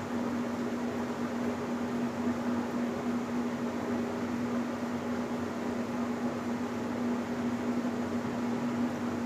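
Electrolux LBU15 top-load washing machine running, a steady machine hum with an even whir.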